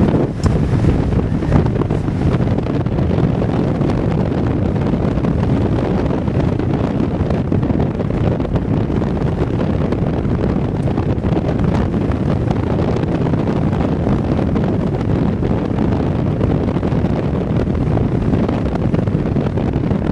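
Strong wind buffeting the microphone: a steady, loud, deep rushing noise.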